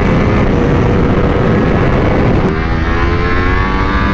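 A vehicle engine running loud under heavy rushing noise; about two and a half seconds in its tone changes and then climbs slowly in pitch as it pulls harder.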